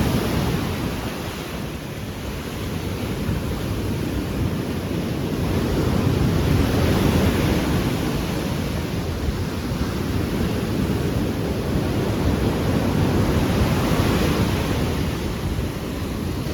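Rough sea surf breaking and washing on the beach, a steady roar of water that swells twice, mixed with wind on the microphone.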